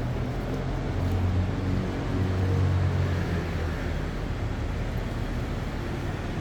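Street traffic: a passing motor vehicle's low engine rumble swells about a second in and eases off after about three and a half seconds, over a steady bed of road noise.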